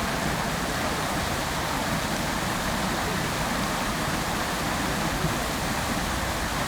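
Fountain water splashing and falling into its basin as a steady, even rush of noise.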